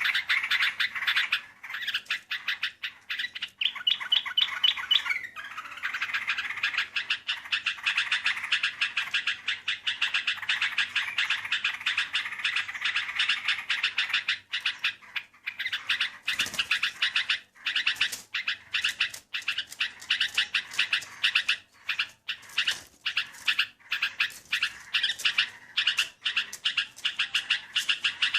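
Sooty-headed bulbul (trucukan) calls: dense, rapid chattering notes repeated almost without pause, thinning briefly about halfway through. This is bird-trapping lure song.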